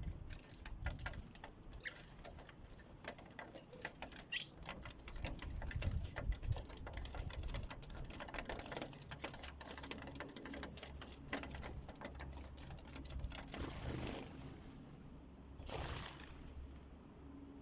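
Sparrows pecking at a bird feeder: many quick small taps and scrabbling clicks, with a couple of short chirps, and two brief rushes of noise near the end.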